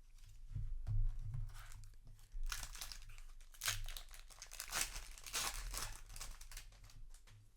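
Foil Magic: The Gathering booster pack wrapper crinkling and tearing as it is handled and opened, with some low handling bumps about a second in.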